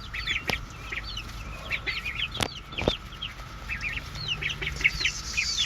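A flock of chickens making short clucks and chirps while they feed on cicadas, with a couple of sharp taps a little past halfway. A steady cicada chorus drones behind them.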